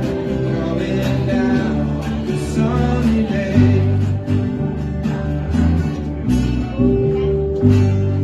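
Acoustic guitar strummed in a steady rhythm, playing the chords of a folk-rock song.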